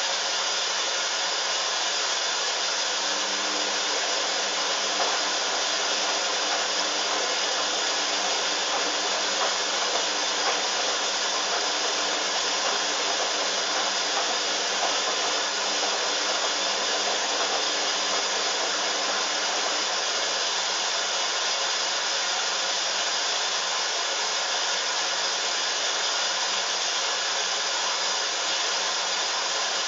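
Hoover washing machine running with a steady whir from its motor and drum. A faint low hum comes in a few seconds in and fades out about two-thirds of the way through.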